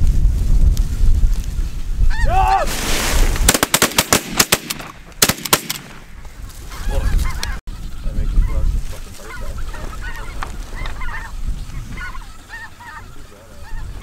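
Snow geese honking. A quick string of shotgun shots comes about three to six seconds in, with wind rumbling on the microphone before them.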